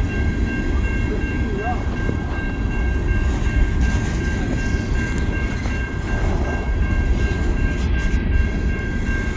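Long coal train's freight cars rolling past at close range: a steady heavy rumble of wheels on rail, with a thin steady high whine over it.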